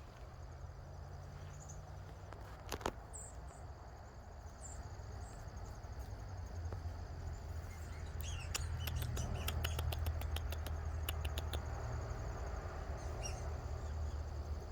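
Outdoor natural ambience: a steady low rumble that swells slightly, a few faint high chirps, and a quick run of sharp clicks a little past the middle.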